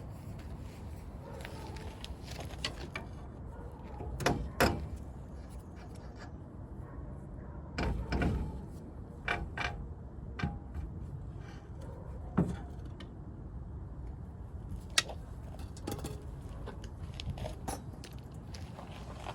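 Scattered metallic clinks and knocks of hand tools working on a truck's front suspension, a few louder ones mixed with lighter taps over a steady low background hum.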